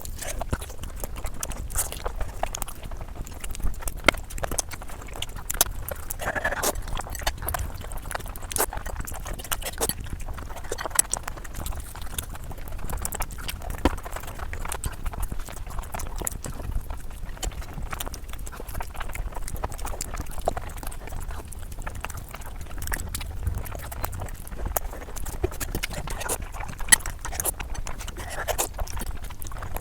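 Close-miked eating sounds: chewing with many irregular sharp clicks and smacks.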